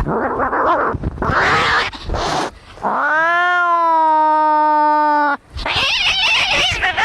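Angry cats fighting: harsh, rasping cries, then one long drawn-out yowl that rises in pitch and holds for over two seconds, followed by a hiss near the end.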